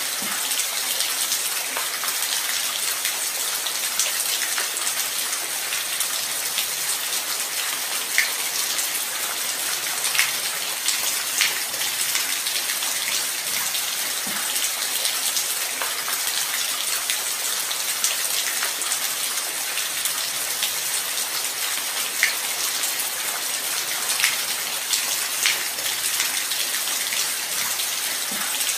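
Light rain falling steadily, an even high hiss with scattered separate drops ticking through it.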